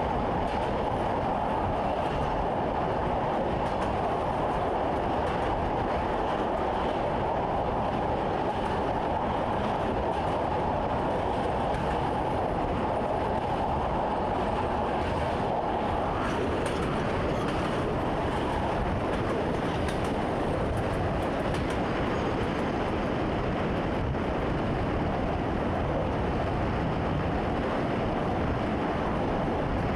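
Commuter train running along the track, heard from inside the driver's cab: a steady rumble and rolling noise, with a hum that fades out about halfway through.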